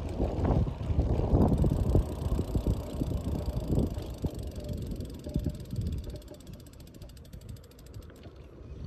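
Bicycle freewheel ticking rapidly and evenly as the bike coasts, over wind rumble on the microphone that dies down about six seconds in.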